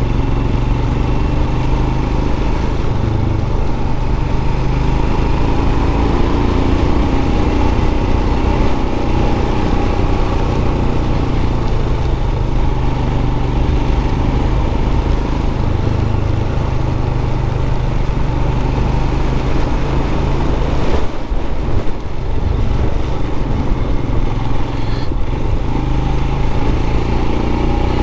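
Royal Enfield Scram 411's single-cylinder engine running at a steady road speed, with wind noise on the microphone. The sound briefly dips and breaks up about three-quarters of the way through.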